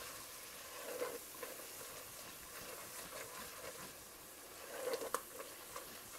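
Ground spices, garlic and ginger frying in oil and butter in a pot, sizzling faintly while a spatula stirs and scrapes them around, with a few light knocks about a second in and near five seconds. The spices are being cooked briefly in the fat to bring out their aroma.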